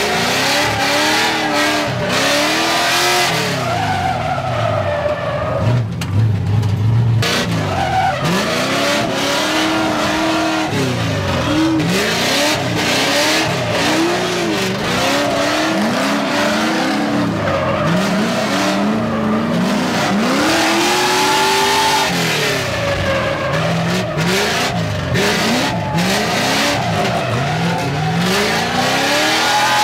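LS V8 engine of a BMW E46 drift car revving up and falling back many times in a row, with the tyres sliding on the track.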